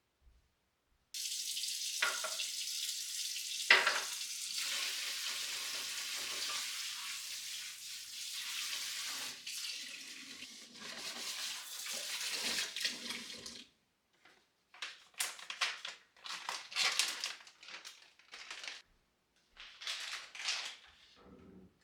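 A kitchen tap is turned on suddenly and water runs steadily for about twelve seconds before stopping, with a sharp click a few seconds in. Short, irregular clatters and rustles of handling follow.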